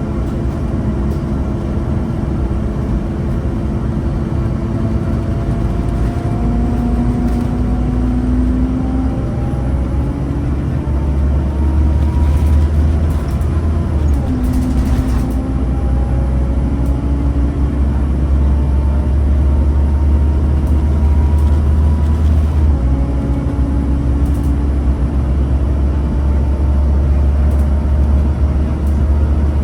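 Scania N230UB Omnicity single-deck bus's five-cylinder 9-litre diesel running under load. The engine note climbs steadily and drops abruptly twice, about 14 and 23 seconds in, as the gearbox changes up.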